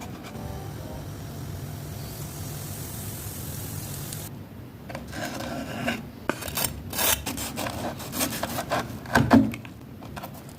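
Crispy fried chicken crust crunching and crackling in a run of irregular strokes that starts about four seconds in, loudest near the end, after a few seconds of steady hiss.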